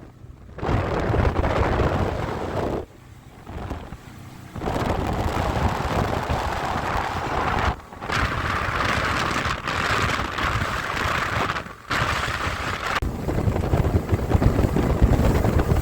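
Wind buffeting the microphone over the rush of water and the outboard motor of an aluminium fishing boat under way. The sound cuts out abruptly several times.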